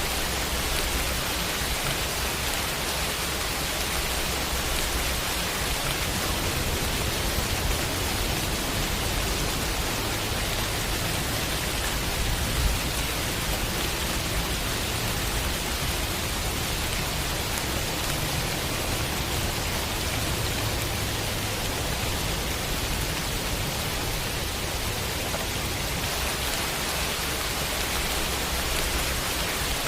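Heavy rain falling steadily as an even hiss. A low rumble swells underneath it from about six seconds in and fades again after about twenty.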